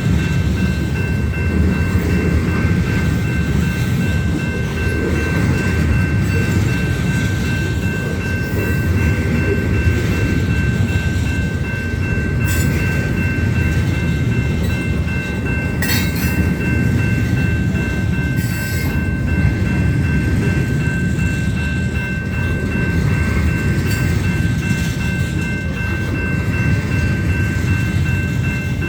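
Union Pacific train's railcars rolling past in a steady low rumble, with thin steady high tones ringing over it throughout and a few brief sharp squeaks partway through.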